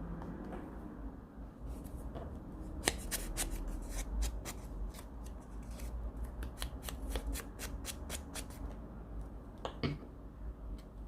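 Paper being handled: a run of crisp crackles and clicks, about three or four a second, from about three seconds in until near the end, then one more click.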